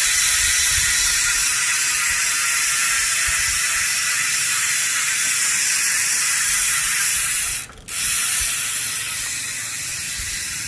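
Bicycle rear freehub of a Strummer hub buzzing as the wheel spins freely: a loud, very fast ratchet-pawl clicking that runs together into a 'cricket'/'wasp' buzz. It cuts out for a moment about three quarters through, then starts again and eases off slightly.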